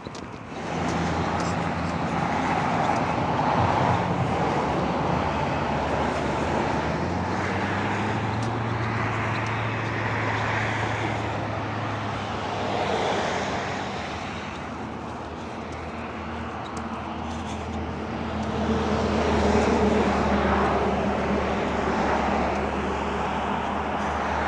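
Road traffic: cars driving past with a steady engine hum and tyre noise, swelling and fading as each vehicle goes by.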